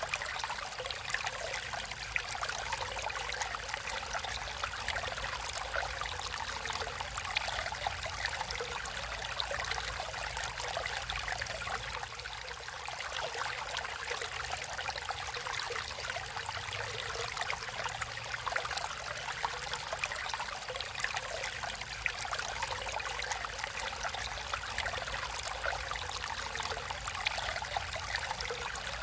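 Water flowing and trickling steadily in a natural stream, an even splashing wash with many small droplet sounds.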